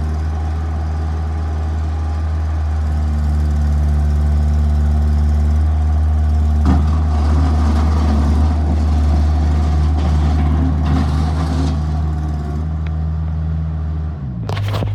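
Bobcat S175 skid steer's diesel engine running steadily. About seven seconds in, a rougher, fuller noise joins the engine note, and near the end the engine pitch drops.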